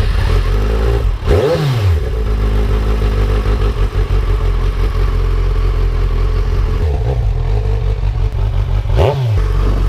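Kawasaki Z1000's inline-four engine, fitted with Toce aftermarket exhausts, just started and idling. It is blipped: a sharp rev about a second and a half in, a smaller one about seven seconds in, and another sharp one near the end.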